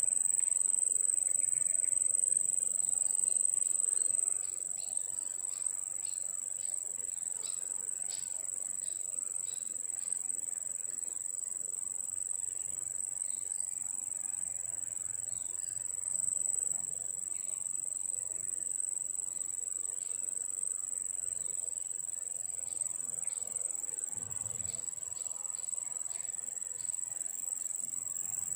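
Insects droning in a steady, high-pitched chorus. It drops slightly in level about four seconds in.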